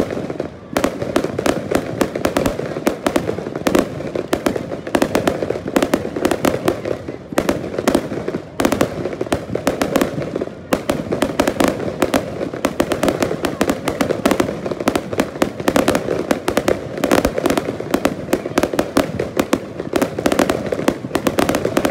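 Fireworks display with aerial shells bursting in a rapid, continuous barrage of bangs and crackling, many reports a second. There are a few short lulls.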